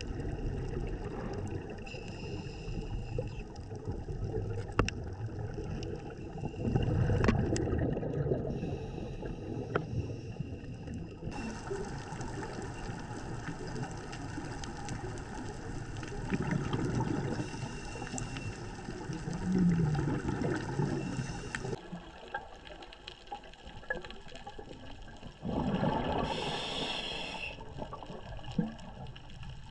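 Underwater scuba-diving sound: a diver's regulator breathing and exhaled bubbles gurgling, swelling in louder surges every several seconds.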